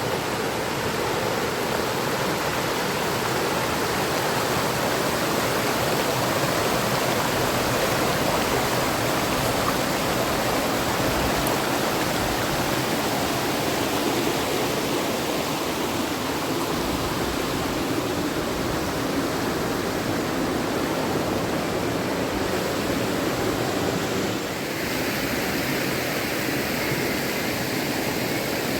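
Fast-flowing river rushing steadily, a loud, even wash of water that changes tone slightly near the end.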